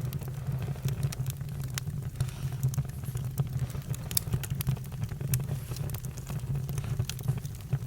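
Campfire burning, with frequent sharp crackles and pops over a steady low rumble.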